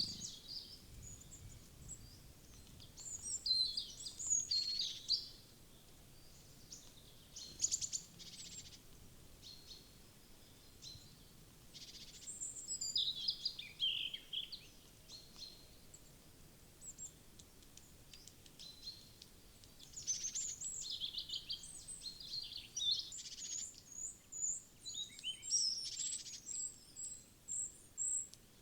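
Small forest birds at a feeder chirping and calling in short, scattered bursts, with a quick run of high notes near the end.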